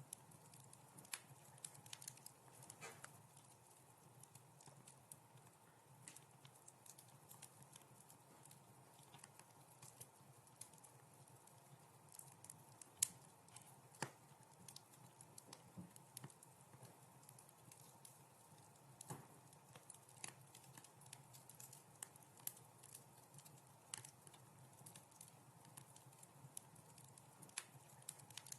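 Wood fire crackling faintly: irregular sharp pops and snaps, with one louder pop about halfway through, over a faint steady low hum.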